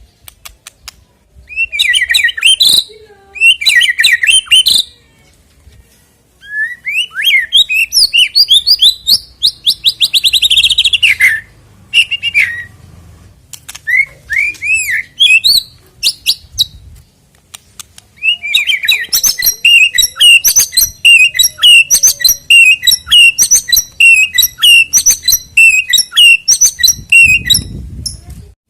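White-rumped shama (murai batu) singing loud, varied whistled phrases broken by short pauses. About two-thirds of the way in, it goes into a long, fast run of repeated notes that lasts almost to the end.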